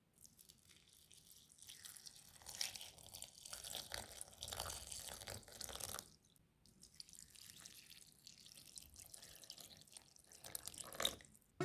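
Faint water dripping and splashing, as in a kitchen sink, with scattered small clicks and one sharper click near the end.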